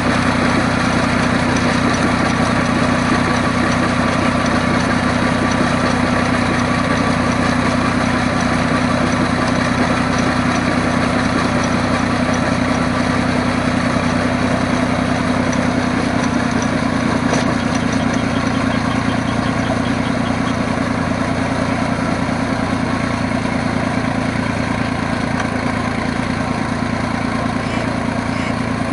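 Fiat DT 45-66 tractor's three-cylinder Iveco 8035.06 diesel engine running steadily.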